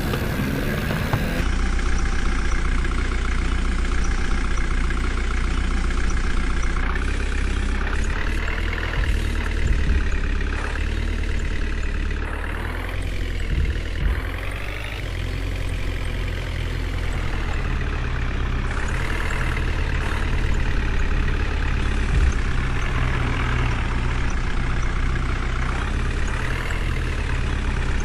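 Heavy diesel engine running, its pitch rising and falling several times as the engine speed changes under load.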